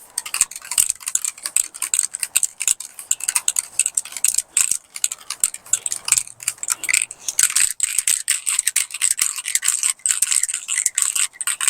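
Aerosol can of spray-on bed liner (Rust-Oleum Turbo Can) being shaken hard, its mixing ball rattling rapidly and steadily to mix the paint before spraying.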